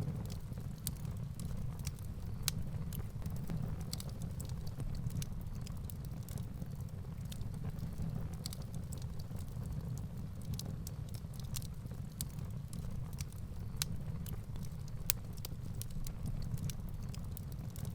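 Firewood burning in a fireplace: a steady low rumble of flame with frequent sharp crackles and pops from the wood. A few louder pops stand out, the loudest one near the end.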